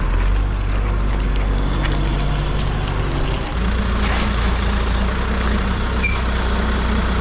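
A vehicle engine running steadily. About three and a half seconds in its note dips briefly and settles at a different pitch, as with a gear change.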